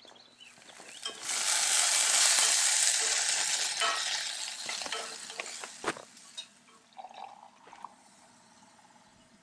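Food sizzling in a hot frying pan: a loud hiss that starts about a second in and dies down over several seconds, with scattered clinks and taps of a utensil.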